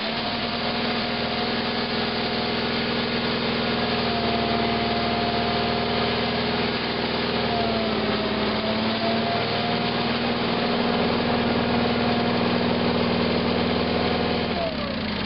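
The 18/6's engine, cold-started on a freshly charged battery, runs steadily with a slight dip in pitch midway, then shuts off abruptly near the end.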